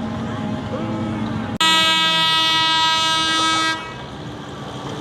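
A horn sounds once, a steady pitched tone about two seconds long, coming in suddenly about a second and a half in and cutting off sharply. A tractor engine runs at low speed underneath.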